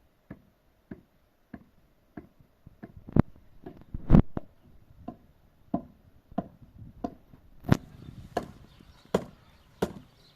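A tool striking wood over and over in a steady rhythm, about three blows every two seconds, with one heavier blow about four seconds in.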